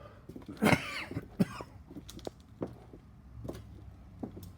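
A person coughs once, about half a second in, followed by a few scattered light clicks and knocks.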